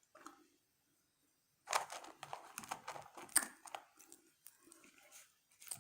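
Close-up mouth sounds of someone eating french fries: a quick run of crunchy bites and chewing that starts about two seconds in, then thins out to a few soft chews.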